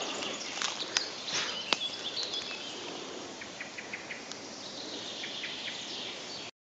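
Forest ambience: small birds singing and calling, with short repeated chirps in the middle, over a steady high hiss. A few sharp clicks come in the first two seconds, and the sound drops out abruptly just before the end.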